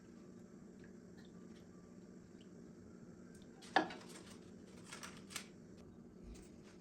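A single sharp clack of kitchenware being handled about four seconds in, followed by a few lighter clicks, over a steady low hum.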